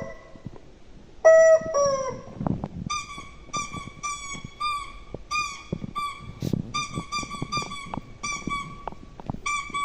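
A run of short, high-pitched honking notes repeating about three times a second, after a single gliding call about a second in.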